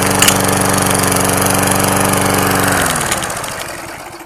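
Briggs & Stratton 3.5 hp single-cylinder four-stroke lawnmower engine running steadily, then shut off about three seconds in, its pitch dropping as it winds down to a stop.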